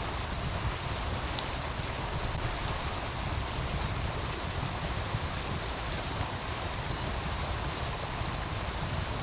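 Steady rushing of a meltwater stream over a low rumble, with a wood fire crackling: a few sharp pops about a second in and again near six seconds.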